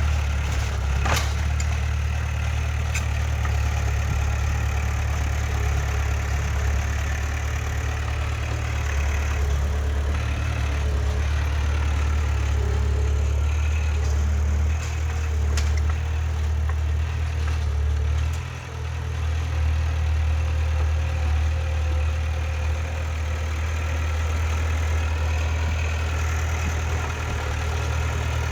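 Heavy diesel earthmoving machine engine running steadily at a low rumble, with a brief dip in level about two-thirds of the way through and a sharp click about a second in.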